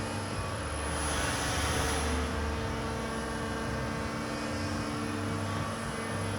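Large CNC bed milling machine running: a steady motor drone with held whining tones and a hiss that swells and eases.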